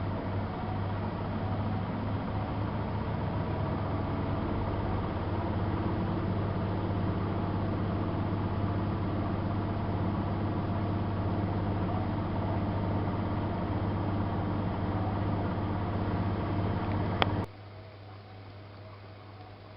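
Miele Softtronic W3657 washing machine running with a steady mechanical hum that cuts off abruptly with a click about 17 seconds in, leaving a much quieter background.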